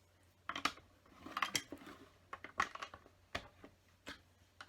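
Plastic LEGO bricks clicking and clattering as they are handled and pressed onto a model: a few scattered, irregular clicks and taps.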